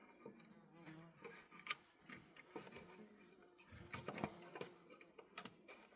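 Near silence in a small room, broken by scattered faint clicks and light knocks.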